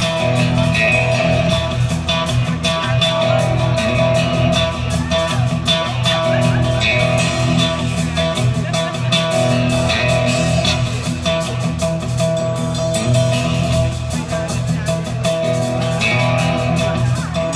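Live rock band playing an instrumental passage led by guitar over bass guitar, steady and loud throughout.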